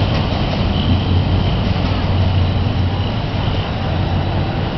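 Steady low rumble of a diesel-hauled passenger train's carriages rolling away along the track, easing slightly near the end.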